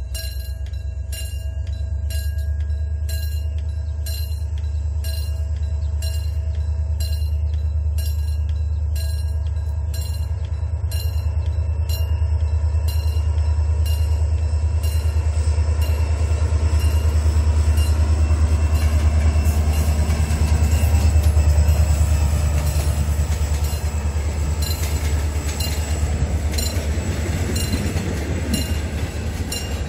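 Diesel-hauled passenger train passing close by: the locomotive's engine gives a steady low rumble that grows louder to a peak about two-thirds of the way through as it goes past, over a regular run of clicks from the rolling train.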